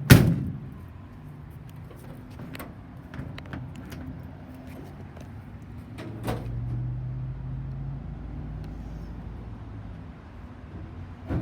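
A heavy metal slam as a vintage truck's hood or door is shut, followed by lighter clicks and knocks from latches and doors. About six seconds in, another knock comes, then a low steady drone for a couple of seconds, and a further thump sounds near the end.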